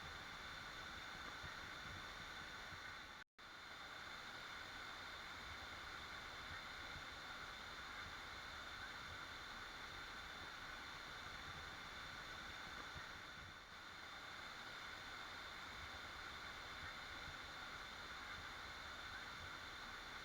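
Waterfall rushing in a steady, even hiss, cutting out completely for a split second about three seconds in.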